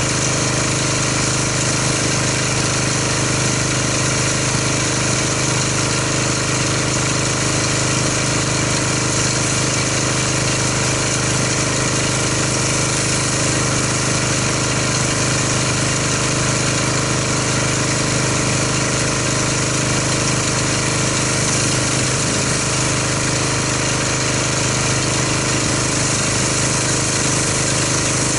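Gas-engine pressure washer running steadily, its engine drone under the hiss of the water spray rinsing soap off a car.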